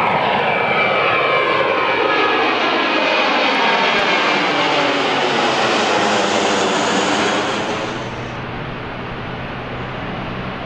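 Jet airliner passing low overhead, loud, its engine whine gliding down in pitch as it goes by; about eight seconds in it drops off to a quieter, steady rumble.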